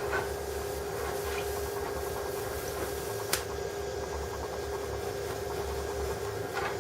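A steady machine hum with a hiss, broken by one sharp click about three seconds in.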